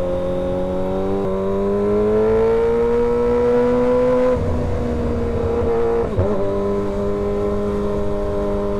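Kawasaki ZX-6R 636 inline-four engine under way. Its pitch steps about a second in, climbs steadily as it pulls, drops about four seconds in, then holds steady at a cruise.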